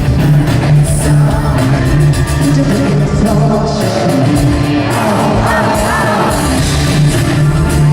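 Loud live pop concert music with a steady bass line and singing, and yells from the crowd.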